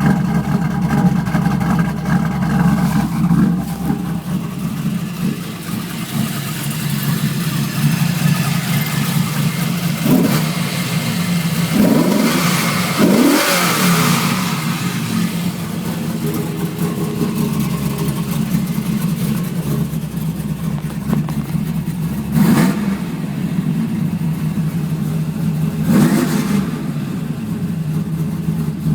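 Camaro Z28 V8 with a Lunati 55008 camshaft and 1.82 roller rockers idling with a little bit of thump, blipped to a few short revs that rise and fall back to idle.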